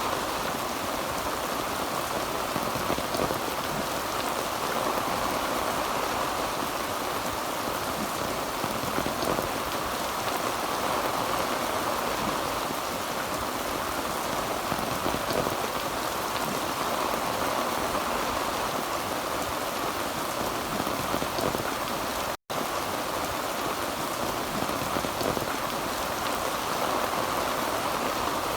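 Heavy rain on a tin roof: a steady, dense patter of drops with no thunder. The sound cuts out completely for an instant about three-quarters of the way through.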